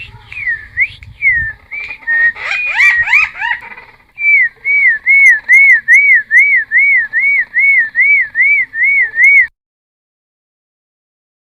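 A cucak timor, a friarbird kept as a songbird, singing loud whistled song. It opens with a few swooping notes and a quick jumble of rising notes, then settles into a fast, even run of identical arching whistles, nearly three a second, before stopping about two seconds before the end.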